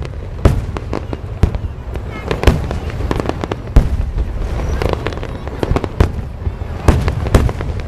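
Fireworks display: aerial shells bursting in an irregular run of loud bangs, several heavy ones a second or so apart among many smaller pops, over a continuous low rumble.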